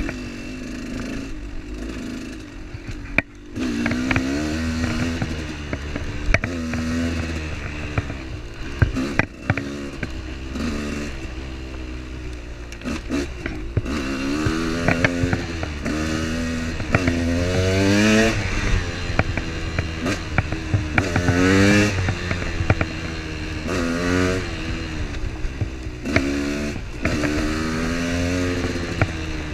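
Motorcycle engine being ridden on a rough road, its pitch climbing under throttle and dropping again over and over, with scattered knocks and rattles.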